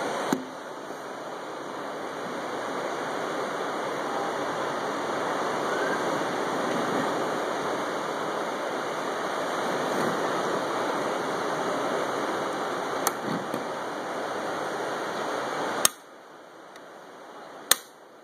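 Steady rushing noise that cuts off suddenly with a click about sixteen seconds in, followed by a second sharp click near the end.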